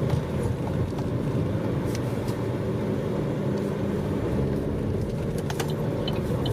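Car driving at a steady pace, its engine and tyre noise a low, even rumble heard from inside the cabin, with a few faint clicks in the second half.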